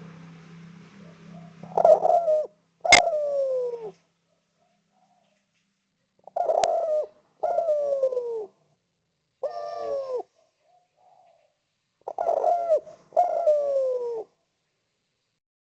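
Spotted dove (derkuku) cooing: about seven coos in loose pairs, each sliding down in pitch, with short silences between them. A sharp click comes twice among the first calls.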